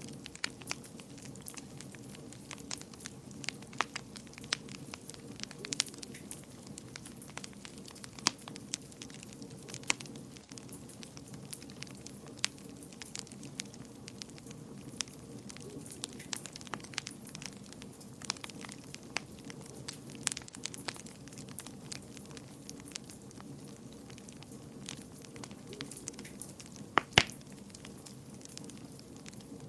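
Wood fire burning in a fireplace, crackling with frequent small irregular pops over a steady low background; one louder pop near the end.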